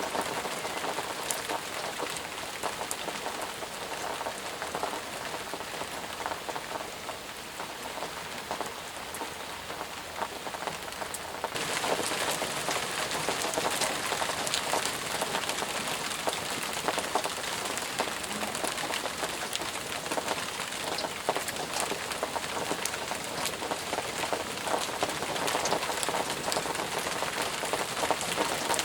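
Steady rain falling, a dense patter of drops; it grows suddenly louder about twelve seconds in and keeps on at that level.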